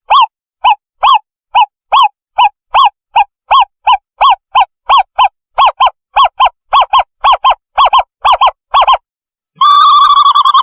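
Owl lure call: a string of short hooting notes that speed up from about three to five a second, then run together into a continuous quavering trill near the end. It is played as a decoy call to attract birds.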